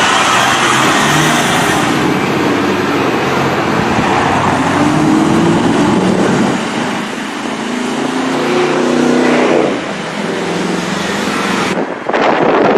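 Car engine revving hard over loud road and wind noise, its pitch rising in several pulls as it accelerates. The sound changes abruptly near the end.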